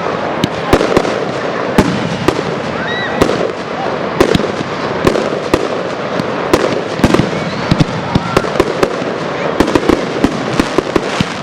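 Aerial fireworks display: an irregular, rapid string of sharp bangs, several a second, over a steady rumble of overlapping bursts. A few short rising whistles from whistling shells are mixed in.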